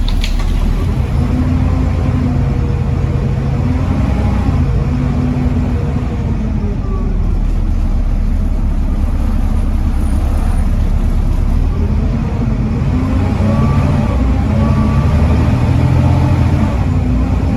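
Volvo D7C 7.3-litre diesel engine of a Volvo B7TL double-decker bus under way. The engine note climbs and then falls back several times as the ZF Ecomat automatic gearbox changes gear.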